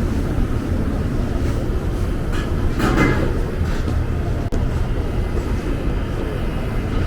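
Wind buffeting the microphone: a loud, uneven low rumble, with a brief louder swell of noise about three seconds in.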